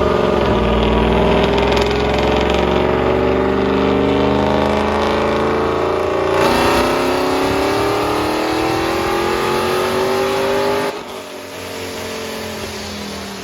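A car engine accelerating hard: its pitch rises steadily for about six seconds, drops at an upshift, then climbs again. Near the end the engine sound falls away sharply.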